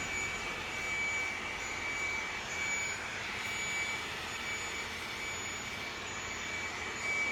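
Steady factory-floor machinery noise: an even hiss with a thin, steady high-pitched whine running through it.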